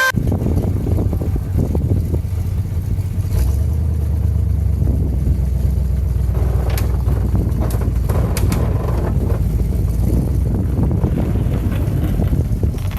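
A vehicle engine running steadily with a low rumble, getting a little louder about three seconds in, with a few short clanks about three, seven and eight seconds in.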